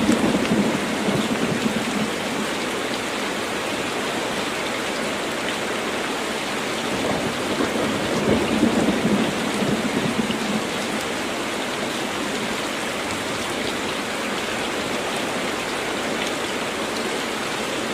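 Very heavy rain falling steadily, with low rolls of thunder twice: one right at the start and a longer one about eight seconds in.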